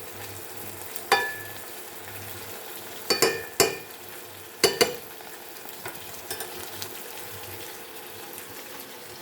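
Chicken fillet sizzling steadily in butter with chilies and garlic in a hot pan. A few sharp clinks of a utensil against the pan about a second in, twice around three seconds and twice near five seconds.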